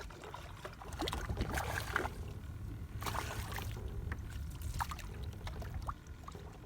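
Reeling in a small hooked whiting from a kayak: scattered clicks and knocks of the reel and gear, and a brief noisy rush of water about three seconds in, over a steady low rumble.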